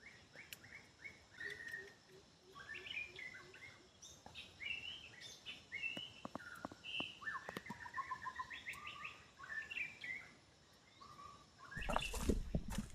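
Forest birds chirping and calling in many short, varied notes, with a few light clicks. Near the end comes a louder rustling noise.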